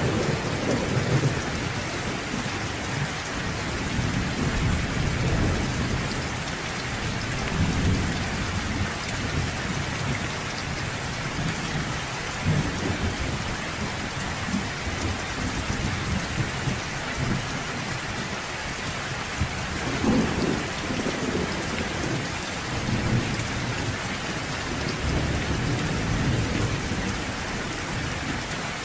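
Steady rain pouring, with low rumbles of thunder rolling in and out every few seconds; the strongest roll comes about two-thirds of the way through.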